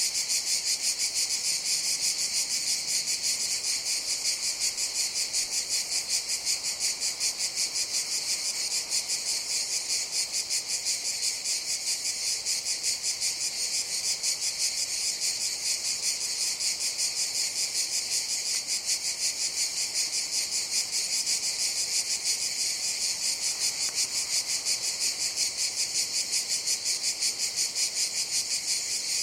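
Cicadas singing in a steady chorus: a high, continuous buzz that pulses evenly several times a second.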